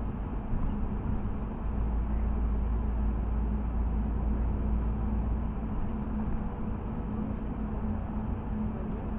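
Inside a LiAZ 6213.65 articulated city bus under way: a steady low engine and road rumble with a constant hum, the rumble a little heavier for a few seconds from about a second in.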